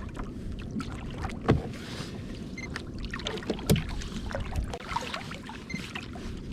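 Water sloshing against a sea kayak's hull with wind on the microphone, broken by two sharp knocks about one and a half and nearly four seconds in.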